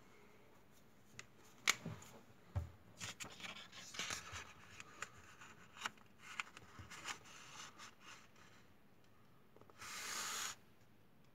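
Paper being handled and folded by hand: scattered crinkles, taps and short rubs, then one sliding rub about a second long near the end, like a fold being creased flat.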